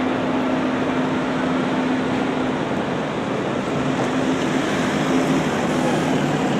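Scania coach's diesel engine running steadily, a dense drone with a constant low hum.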